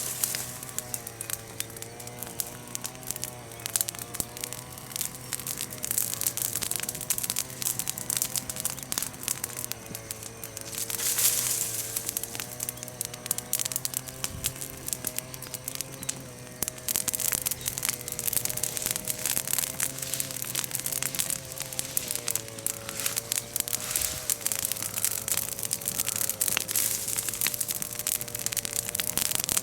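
Bonfire of freshly broken green chestnut wood, leaves and twigs crackling and popping continuously, with a louder hissing flare-up about eleven seconds in. A faint wavering tone and a low steady hum run underneath.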